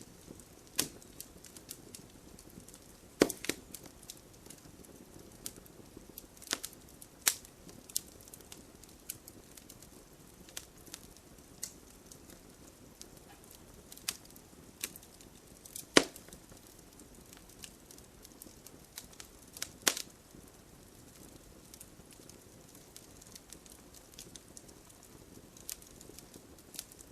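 Campfire logs burning and crackling: scattered sharp pops and snaps at irregular moments, the loudest about 3, 16 and 20 seconds in, over a low, steady hiss of flame.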